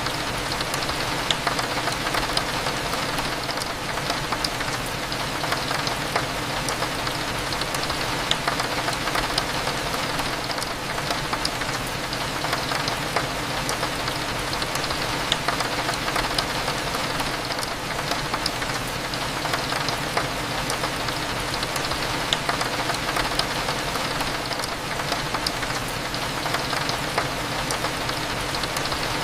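Steady rain hitting a window, with scattered sharp drop ticks, over a low steady cafe hum.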